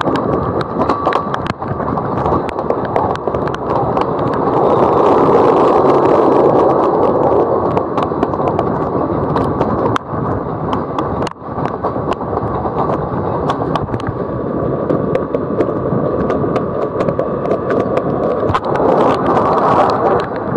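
Passenger train running on its rails, heard through an open carriage window: a steady rumble of wheels on track with frequent sharp clicks and knocks, and wind rushing past. A faint steady whine comes in for a few seconds past the middle.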